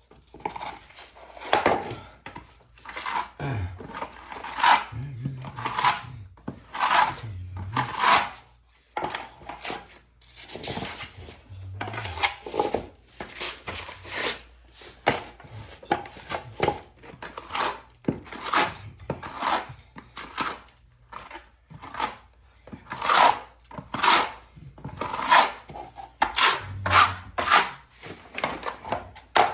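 Setting-type joint compound (hot mud) being packed into deep holes in an old plaster wall with a steel knife: repeated scraping strokes of the blade on the wall, irregular, about one a second.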